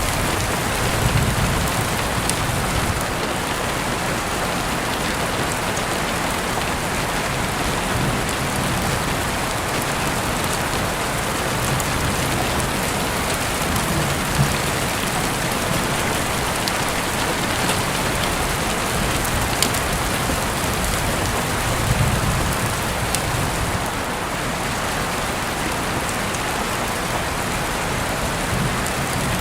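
Heavy rain falling steadily, with scattered sharp drop ticks and a few soft low swells underneath.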